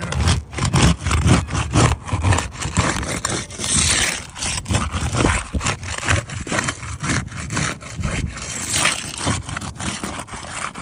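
Repeated scraping and rubbing of a tool working under and against roof shingles as a damaged shingle is pried loose for replacement, in quick irregular strokes.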